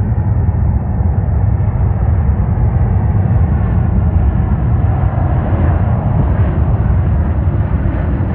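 Airbus A220-300 jet on approach, its Pratt & Whitney PW1500G geared turbofans making a steady low rumble with a rushing hiss that grows brighter from about halfway through as the plane draws nearer.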